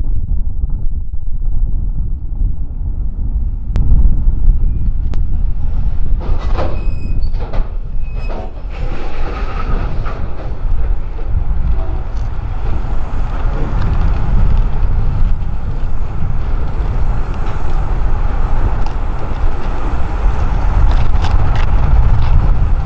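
Freight train rolling past below, steel wheels and railcars clattering steadily, with a few sharp knocks and brief high tones a few seconds in. Wind rumbles on the microphone underneath.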